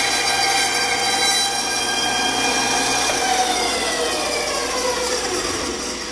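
Band saw running while cutting a wooden cabriole leg blank: a steady machine whine over hiss. In the second half the pitch slowly falls, and the sound fades away at the very end as the saw winds down.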